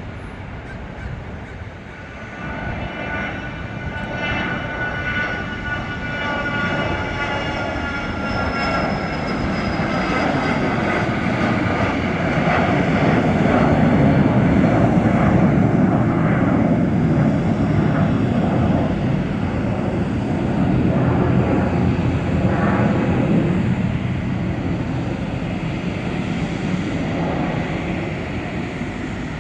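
Cessna Citation V business jet's twin Pratt & Whitney Canada JT15D-5A turbofans at takeoff power as it passes: a high whine falling in pitch over the first ten seconds, then a broad roar that is loudest about halfway through and eases off slightly toward the end.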